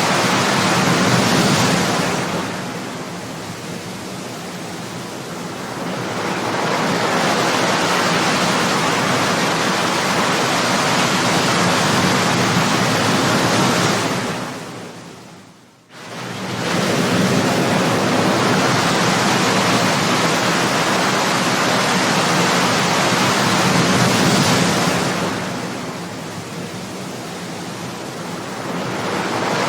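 Ocean surf: waves breaking and washing in a continuous rush that swells and ebbs. About halfway through, the sound fades away almost to quiet and then comes back sharply.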